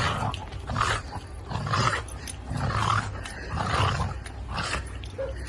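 An animal making repeated rough, growl-like calls, about one a second.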